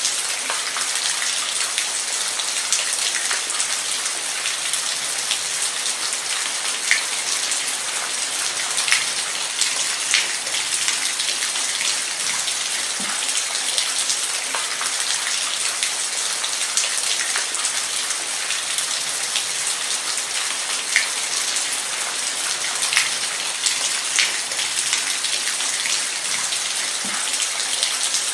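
Steady rain, an even hiss with scattered sharper drops ticking on a surface.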